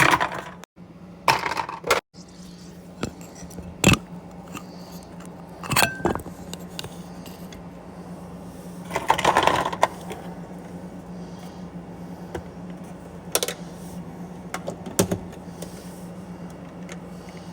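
Ice cubes dropped into the plastic water tank of an Arctic Air Ice Jet portable evaporative cooler, clinking and clattering in scattered knocks, with a longer rattle about nine seconds in. A steady low hum runs underneath from about two seconds in.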